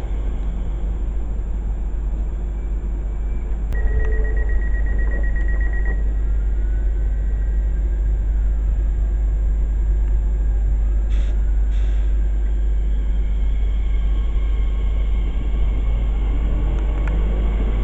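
A train running through the station, a steady rumble under heavy wind noise on the microphone. A high steady tone sounds about four seconds in and lasts about two seconds.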